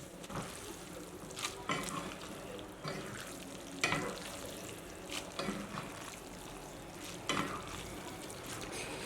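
Food sizzling in a pan as it is stirred, with scattered sharp clicks of the utensil against the pan.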